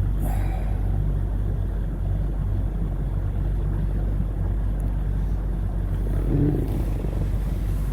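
75 hp Mercury outboard idling with a steady low hum.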